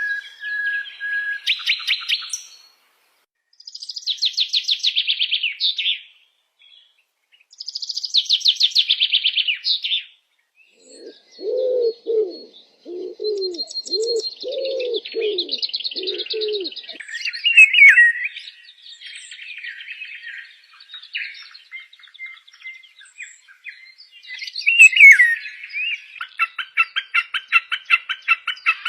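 Several wild birds singing and calling in turn: high, fast trills in separate bursts, a run of about seven low notes near the middle, then sweeping whistled notes and a fast repeated trill near the end.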